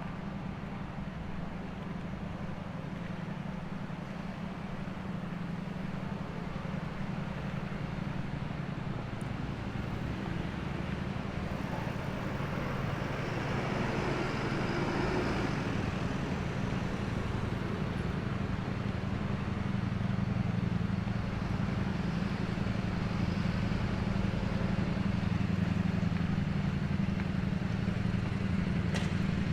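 City street traffic: a steady low engine hum with vehicles passing, slowly growing louder.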